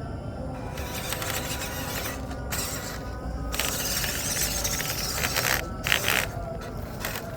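MN99S D90 RC crawler's small electric motor and gearbox whirring in several separate bursts of throttle, with its tyres scraping through wet mud. The longest burst comes in the middle, and a short, loud one follows about six seconds in.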